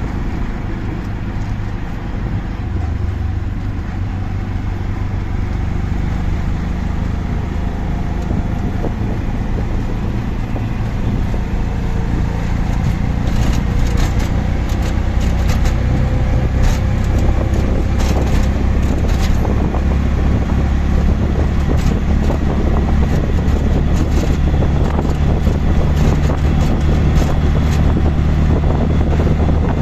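Auto rickshaw engine running steadily with road noise, heard from on board, with a run of rattles and clicks around the middle and the engine getting a little louder in the second half.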